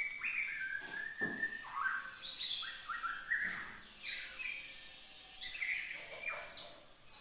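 Young murai (Copsychus songbird) singing a rambling run of short whistled notes and quick slides up and down in pitch, the early, unpolished song of a chick just starting to sing.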